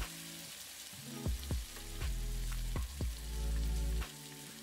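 Chicken breasts sizzling in hot oil in a frying pan: a steady hiss, under background music with plucked low notes that is louder than the sizzle.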